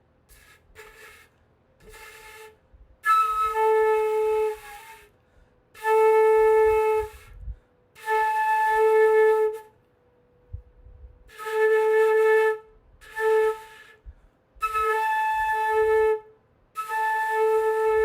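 Flute blown by a beginner: a few faint, short attempts, then a series of held notes about one to two seconds long with gaps between, mostly on the same pitch, with audible breath noise. The breathy, uneven starts come from a player still learning to get a straight, clean tone.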